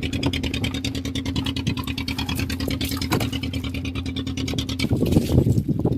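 Fishing boat's engine running steadily under way, a steady note with a fast, even firing beat. About five seconds in the steady note drops away, leaving rougher, uneven noise.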